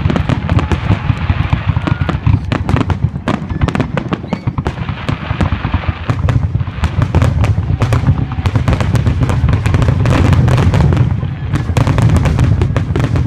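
Fireworks finale: a dense, rapid barrage of exploding shells, with sharp cracks piling onto one another over a continuous deep booming rumble.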